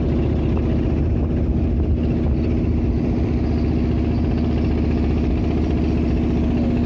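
Klotok river boat's engine running steadily at an even speed.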